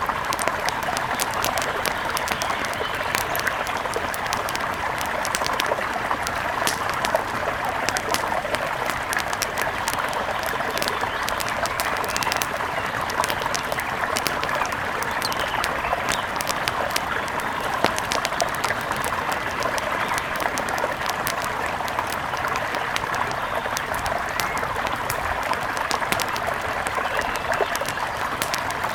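Steady rush of a mountain river, with many small sharp clicks and pops scattered through it.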